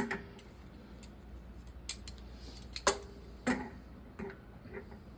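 Scattered sharp metallic clicks and clinks, about six in all, some ringing briefly, as wrenches and threaded pipe fittings are handled, over a low steady hum.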